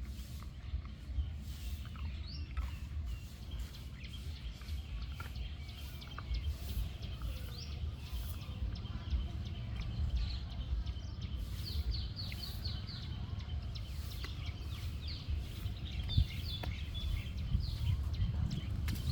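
Small birds chirping in short, quick rising notes, with a rapid run of chirps around the middle, over a steady low rumble. One sharp knock about 16 seconds in.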